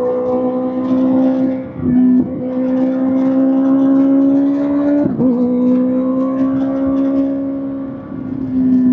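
Kawasaki ZX-6R's inline-four engine through an SC-Project SC-1R exhaust, pulling under load with its note climbing steadily. It drops sharply at gear changes about two and five seconds in, then eases off as the throttle closes near the end.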